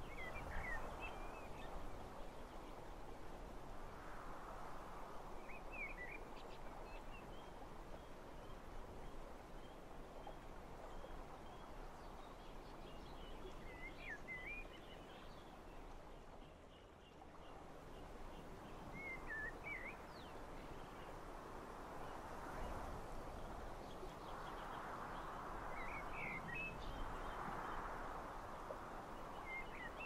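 Small birds giving short twittering chirps every few seconds over a steady outdoor rush that swells and eases.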